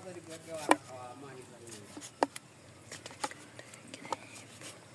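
Soft voices in the background, with four short, sharp knocks spaced about a second apart.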